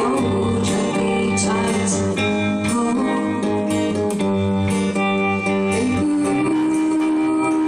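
Live acoustic pop music led by a guitar, with held notes.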